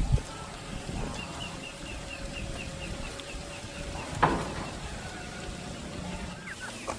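Farmyard ambience: a run of short high chirps repeating several times a second for a few seconds, over a low steady background, with a single sharp knock about four seconds in.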